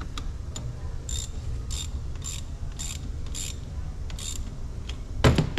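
Ratchet with a 10 mm socket clicking on six back-strokes about half a second apart while tightening a nut at the car battery, then a loud knock near the end.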